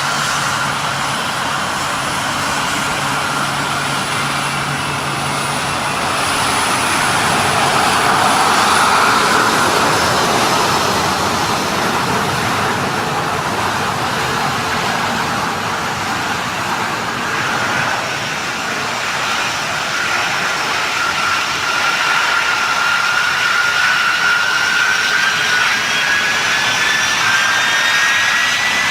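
Turbine engines of military transport aircraft running loud and steady, with a high whine that rises toward the end.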